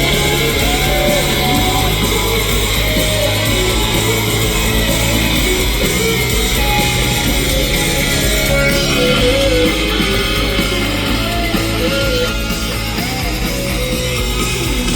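Live rock band playing an instrumental stretch of the song, electric guitars over bass and drums, with no singing.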